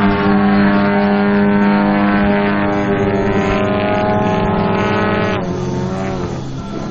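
Engines of two Krill Extra 330SC aerobatic model planes in formation flight, a steady loud drone that drops in pitch and becomes quieter about five seconds in as they pass by or throttle back.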